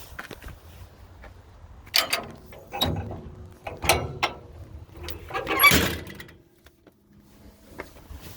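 Metal knocks and rattles of the bulldozer's engine compartment doors or panels being handled: four clusters over about four seconds, the last the loudest, over a faint low rumble that stops near the end.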